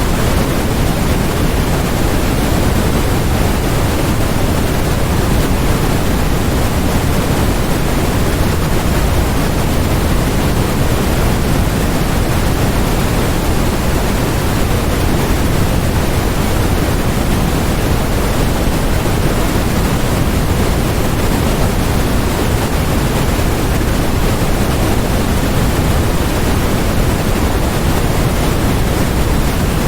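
Steady, loud synthetic white noise, an even hiss that never changes, with more weight in the low end than in the highs.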